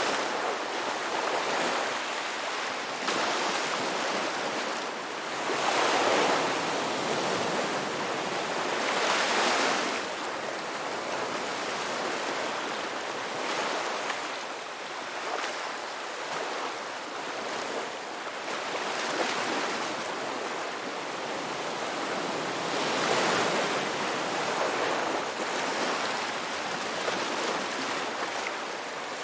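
Ocean waves breaking and washing on a shore, a continuous surf noise that swells and ebbs every few seconds.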